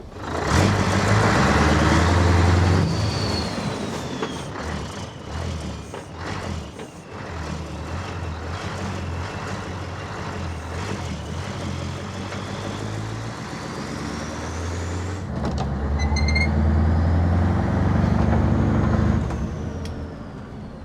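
Scania 143's V8 diesel engine pulling through straight vertical exhaust stacks as the truck is driven and shifted: it comes on loud, eases off for a long stretch, then pulls loud again about three quarters of the way in. A faint high whistle rises and falls over the engine.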